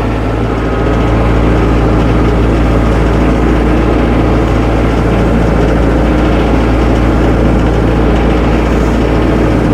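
Tractor engine running steadily while the tractor is driven slowly back and forth.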